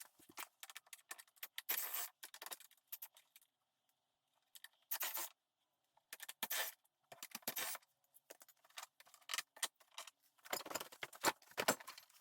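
Metallic clinks, clicks and scrapes of hand tools, bolts and plastic clips being worked on an ATV's body panels. The sounds come in short, irregular bursts with dead-silent gaps between them.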